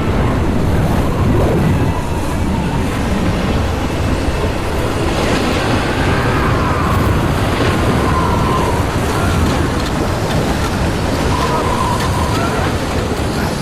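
Strong gale wind blowing hard in a steady dense rush.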